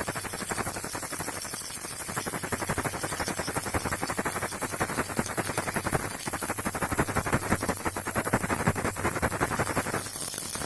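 Baby rattle shaken continuously: a fast, dense stream of small clicks over a steady high hiss.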